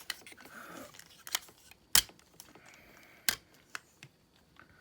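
Hard plastic parts of a Transformers action figure clicking and knocking as it is handled and transformed, with a sharp click about two seconds in and another just over a second later.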